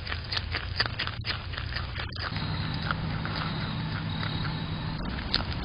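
Groundhog eating, heard through a security camera's microphone: quick crunching clicks about five a second for the first second or so, then a steady low hum and hiss.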